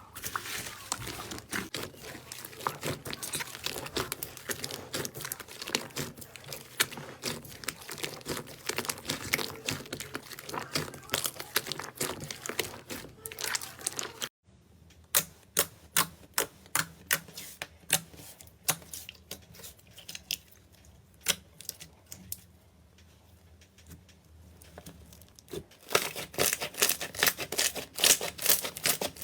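Slime being squeezed and poked, giving a dense run of crackling, popping clicks. About halfway through the sound cuts off, and then comes back as separate sharp pops that grow dense again near the end.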